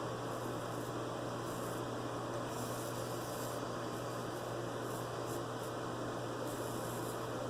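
Steady hiss with a low electrical hum underneath; the high part of the hiss swells and fades a few times.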